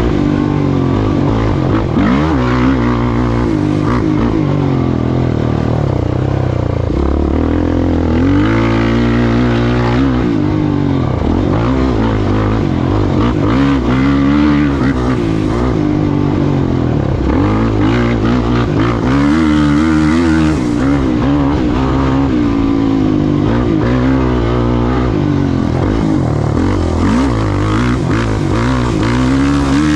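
Off-road race vehicle's engine running hard, revving up and down over and over, its pitch climbing and dropping with throttle and gear changes.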